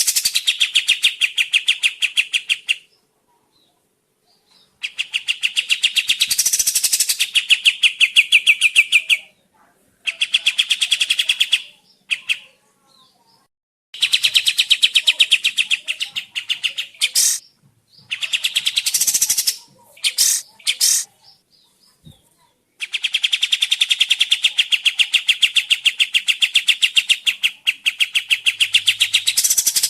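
Kapas tembak songbird singing in long runs of rapid, chattering notes, several seconds at a time with short pauses in between. This is the lure song played to get other birds to answer.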